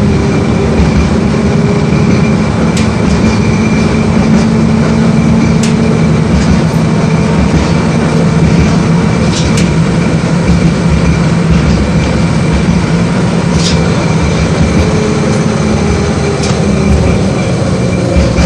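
LVS-86K tram running along the track, heard from inside the car: a steady rumble of wheels and running gear with a constant whine. Occasional sharp clicks come through over it.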